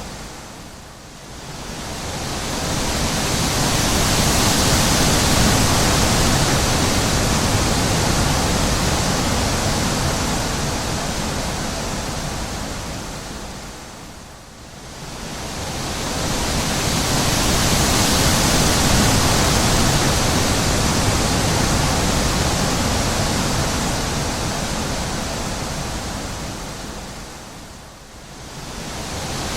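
Wind blowing: a rushing noise that swells up and dies away in long, slow gusts, dropping low about a second in, around the middle and near the end.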